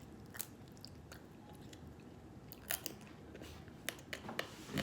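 Blue crab shell cracking and snapping as it is broken apart, with some chewing in between; a few separate sharp cracks, then a louder cluster near the end.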